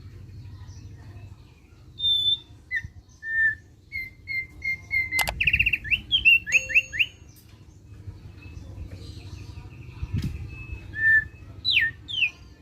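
Thick-billed white-eye (opior paruh tebal) singing in short whistled notes from about two seconds in, with a fast trill of repeated notes around the middle. After a pause come a few more notes and two quick falling sweeps near the end. A low steady hum lies underneath.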